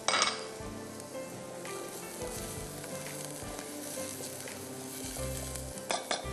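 Chopped onion, garlic, crushed red chillies and oregano sizzling in hot oil in a small non-stick saucepan while being stirred with a silicone spatula. A brief louder sizzle comes just after the start, and a few sharp clicks sound near the end.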